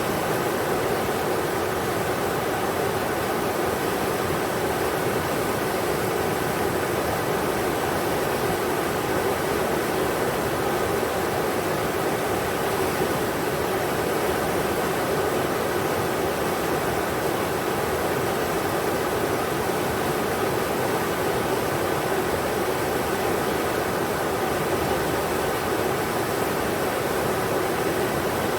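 River water rushing steadily over rocks, an even, unbroken rush with most of its weight in the middle range.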